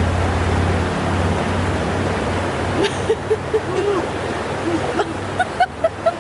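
Steady rush of flowing water from the cold stream. From about three seconds in, a quick run of short, high-pitched cries comes over it.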